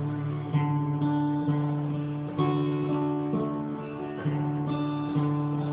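Acoustic guitar strumming chords in an instrumental passage of a song, changing chord every second or so.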